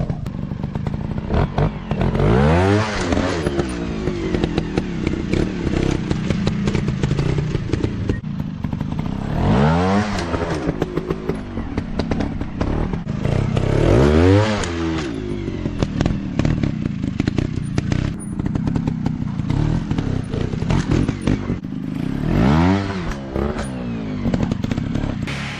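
Small dirt bike engines revving hard, rising sharply in pitch about four times, over steady engine running with clattering and thuds throughout.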